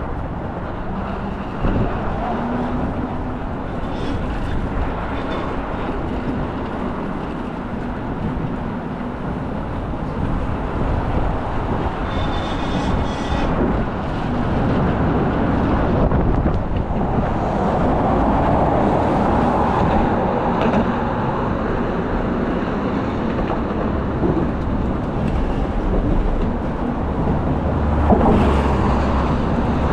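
Steady road traffic noise of passing vehicles, with a brief high-pitched tone about twelve seconds in.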